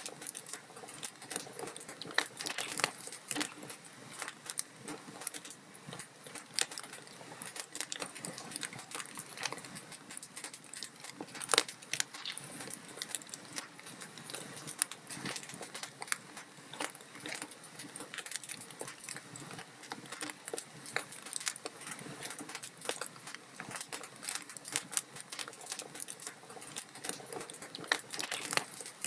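Wood fire burning in a fireplace, with dense, irregular crackles and pops from the burning logs over a soft hiss. One pop about eleven seconds in stands out above the rest.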